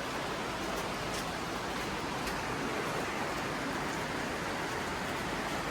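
Creek water rushing steadily, an even hiss with no change.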